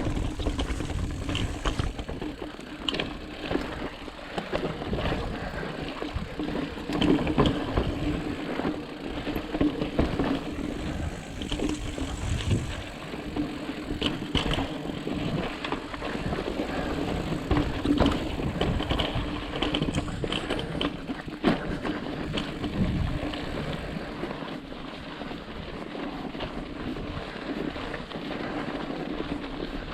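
Ibis Ripley mountain bike being ridden over rock and sand: tyre noise with a steady hum, and frequent knocks and rattles from the bike jolting over bumps.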